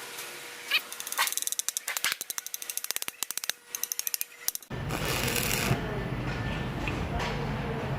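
A fast run of light hammer taps on metal, as when weld slag on an exhaust pipe is knocked off. About halfway through, a steady low rumbling noise begins abruptly.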